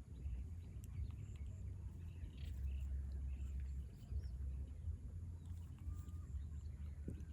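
Outdoor ambience: a steady low rumble with faint, scattered short chirps.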